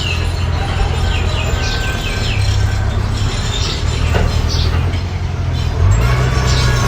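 Mini bulldozer's engine running steadily under load, a deep steady hum that steps up just before the end. Repeated short high squeaks sound over it, typical of crawler tracks and running gear.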